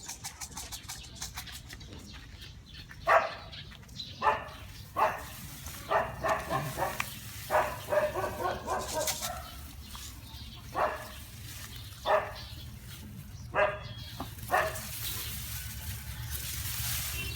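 A dog barking, about a dozen single barks at irregular intervals from about three seconds in, over a steady low rumble.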